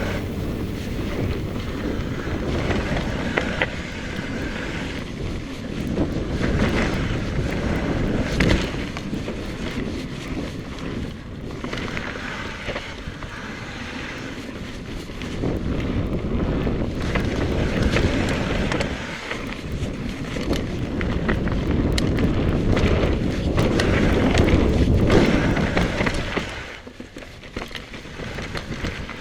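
Mountain bike rolling over a dirt trail, with tyre noise and rattles and wind buffeting the chest-mounted camera's microphone. The noise swells and fades with the riding and drops away near the end.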